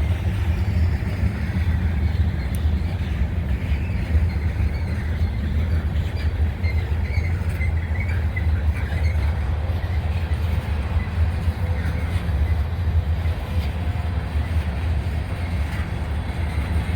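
Freight train rolling past: a steady rumble of cars on the rails, with faint wheel squeal near the middle.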